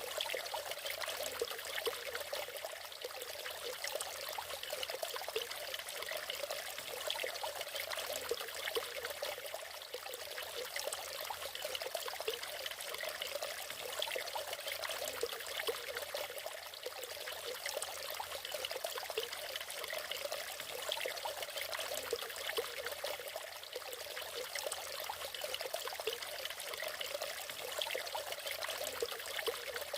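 Small natural waterfall: water falling and splashing in a steady, even rush with a trickling, bubbly texture and little deep rumble.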